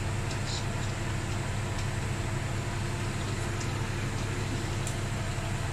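Beko washing machine running in test mode: a steady low hum with an even whirring hiss above it.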